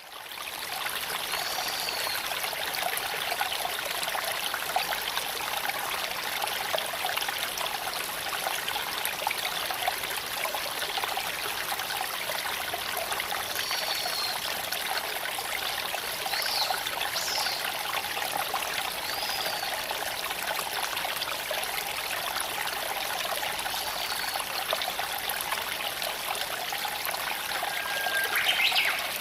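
Creek water running over stones, a steady rushing and trickling flow. Short high chirps sound a few times, and a louder call comes near the end.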